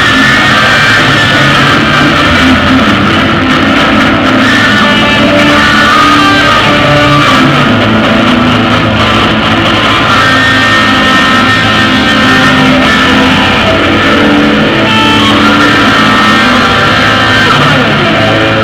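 Loud rock music led by guitar.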